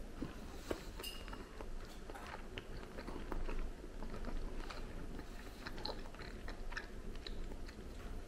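A man chewing a mouthful of beef stroganoff (a chunk of beef, a mushroom and an egg noodle). It is faint, with many small wet mouth clicks scattered throughout.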